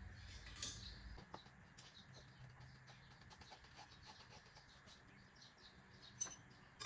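Quiet hand work on motorcycle exhaust parts: faint scattered ticks, then a couple of sharp metallic clinks near the end as an exhaust spring and metal parts are handled.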